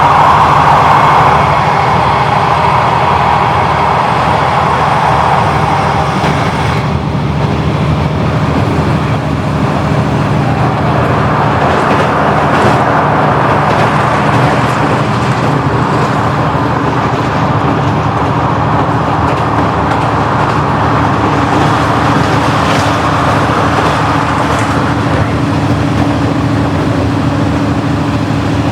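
A vehicle engine running steadily with a low, even hum. About seven seconds in the higher hiss drops away, and a steady higher drone joins in later.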